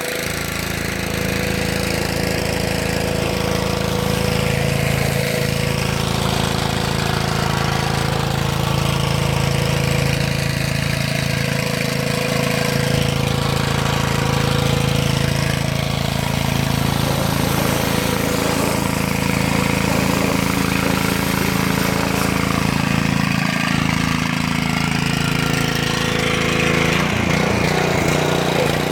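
Small engine running steadily, with a constant low hum and a broad hiss over it.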